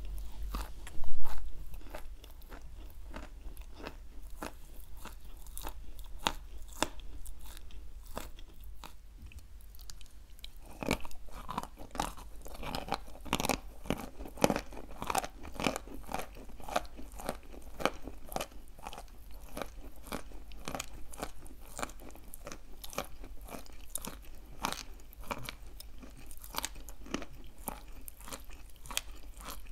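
Wet chalk being chewed: a close, continuous run of crunching and wet mouth sounds, with one loud crunch about a second in. The crunching grows denser and louder from about eleven seconds in.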